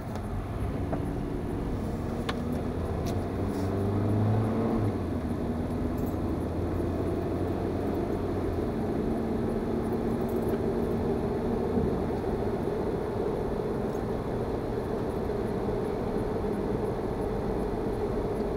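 A car driving along: steady engine and road noise, with the engine's pitch shifting a few times.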